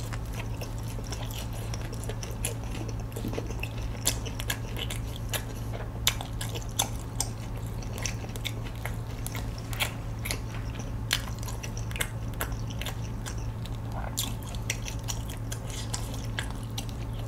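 A person chewing a mouthful of fried dumpling close to the microphone: irregular short clicks and crackles from the mouth, a few a second, over a steady low hum.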